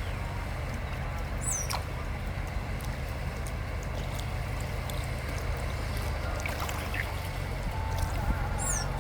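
Steady rush of running water with a low rumble underneath. A short, high, descending bird chirp sounds twice, about a second and a half in and again near the end.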